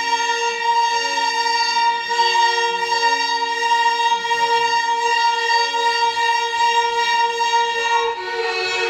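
Violin ensemble playing Carnatic music: a high note is held steadily while lower parts change notes beneath it. Near the end the texture shifts to a busier passage with sliding notes.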